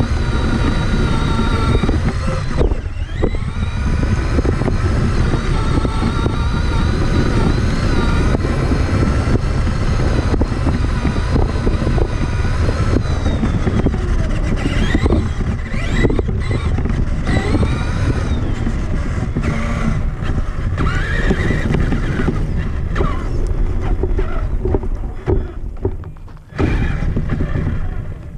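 Traxxas Summit RC truck driving, its electric motor and gears whining in pitch that rises and falls with the throttle over a heavy, continuous low rumble picked up by the onboard camera. The sound drops away sharply near the end.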